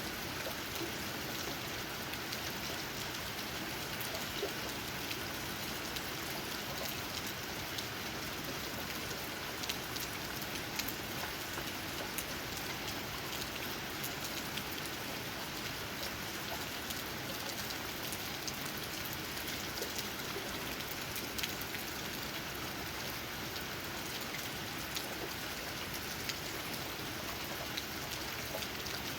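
Steady rain falling, with many individual raindrops tapping on leaves scattered through an even hiss.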